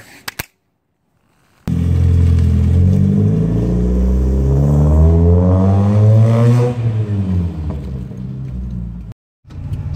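Car engine accelerating hard. It starts abruptly after about a second of silence, its note climbs steadily for about five seconds, then drops and settles as the car eases off.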